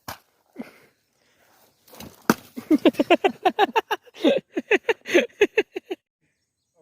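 A person laughing hard, a rapid run of short 'ha' bursts lasting about three seconds, just after a sharp knock about two seconds in.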